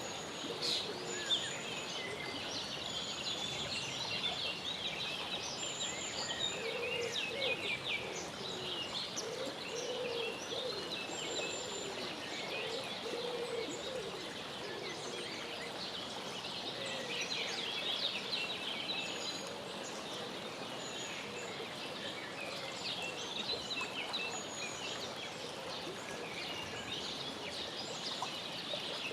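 Mallard ducklings peeping continually in a mix of high chirps, with other birds' calls and short low calls recurring throughout.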